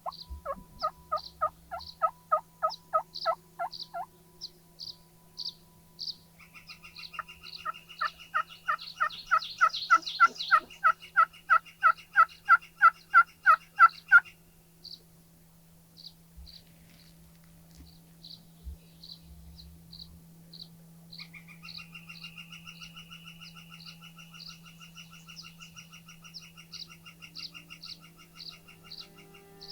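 Turkey yelping: long runs of evenly spaced yelps, about three or four a second. A louder run grows stronger toward its end, and a softer run follows near the close.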